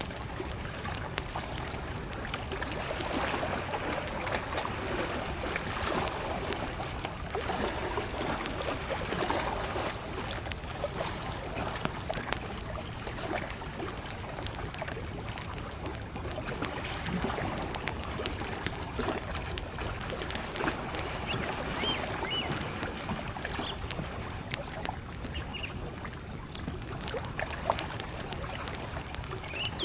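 Small lake waves lapping steadily at the shore with a wood campfire crackling and popping over it. A few short, distant bird chirps come in the second half.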